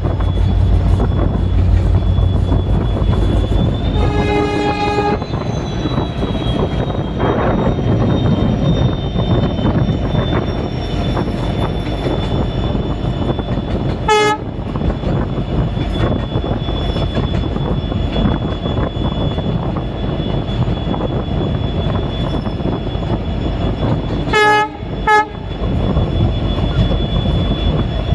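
WDG4D diesel-electric locomotive running, heard from inside the cab: a steady rumble of engine and wheels on the track. The horn sounds for about a second around four seconds in, gives a short toot about fourteen seconds in, and two quick toots near the end.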